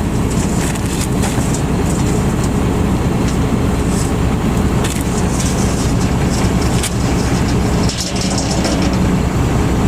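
A vehicle engine running steadily at an even idle, with a few faint clicks over it.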